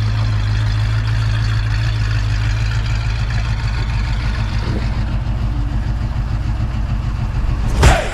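1968 Ford Mustang's 302 V8, with an upgraded exhaust, idling steadily. A sudden loud hit comes near the end.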